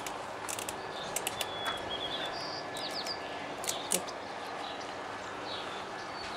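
Birds chirping, short high calls in the first few seconds, over a steady background hiss, with a few sharp clicks.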